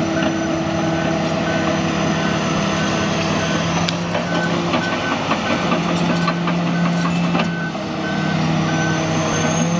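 Backup alarm beeping in a steady repeating rhythm over the steady running of a Caterpillar D10R bulldozer's diesel engine as the machine reverses.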